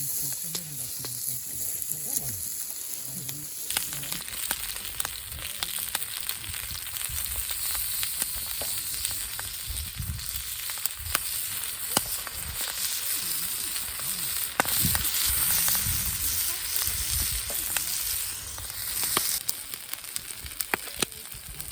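Food sizzling as it fries on hot metal: a steady hiss with many small pops and spits, growing fuller about four seconds in.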